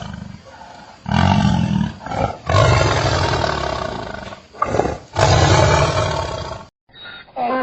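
A large animal roaring: three or four long, deep roars, each lasting one to two seconds, with short pauses between them.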